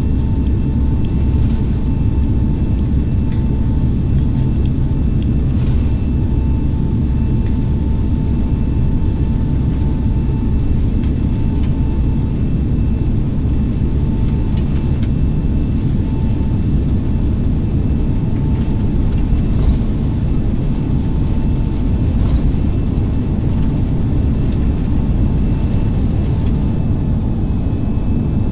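Airbus A320neo heard from inside the cabin during its takeoff roll: a loud, steady rumble with an engine whine held at one pitch.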